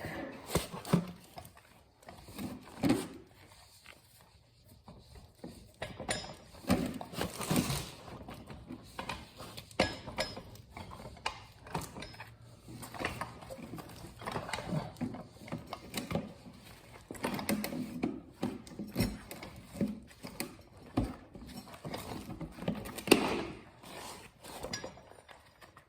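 Irregular knocks, clicks and scrapes of metal parts as a motorcycle rear wheel and its axle are worked into place by hand.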